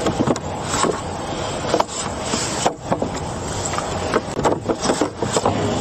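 Boards of lumber knocking and scraping against each other as they are shifted, a run of irregular sharp knocks over steady traffic noise.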